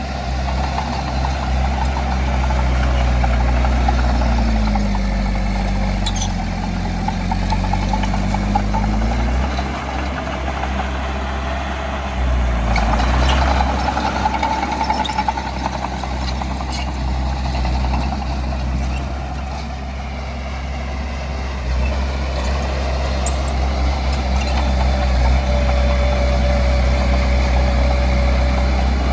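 Heavy diesel earthmoving machinery running continuously, its engine pitch dipping and rising as it works under load. A few sharp clanks sound along the way.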